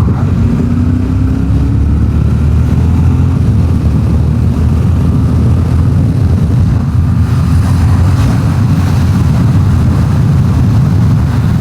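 Yamaha Ténéré 700's parallel-twin engine running steadily while the bike is ridden along, a continuous low drone with road and wind noise.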